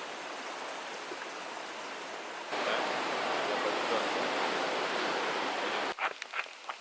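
Steady rush of flowing water. About two and a half seconds in it cuts to a louder, closer rush, which stops abruptly near the end, giving way to a few sharp clicks.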